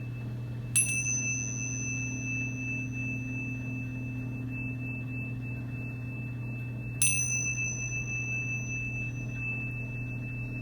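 A small high-pitched bell or chime struck twice, about six seconds apart. Each strike rings on in a clear, pure, high tone over a steady low hum.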